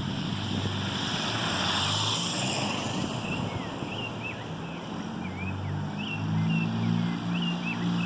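Low engine hum and road noise from passing traffic, swelling in the first few seconds. From about three seconds in, small birds chirp in short, repeated rising and falling notes over it.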